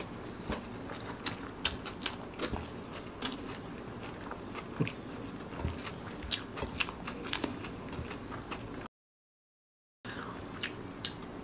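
Close-miked chewing of rice and spiced eggs eaten by hand: a steady run of short, sharp mouth clicks and smacks. The sound drops out to dead silence for about a second near the end.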